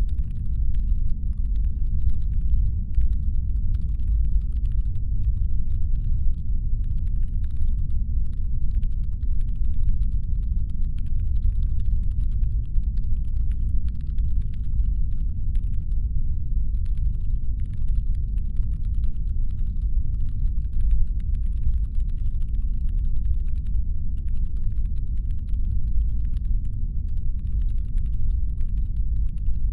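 Deep, steady brown-noise rumble of a spaceship-engine ambience, with a faint layer of rapid fine clicking over it.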